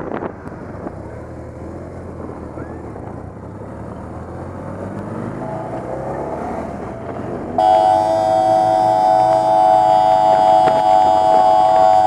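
Police motorcycle engines running, with a few short revs. About seven and a half seconds in, a much louder steady chord of several held tones, like a horn, starts suddenly and drowns them out.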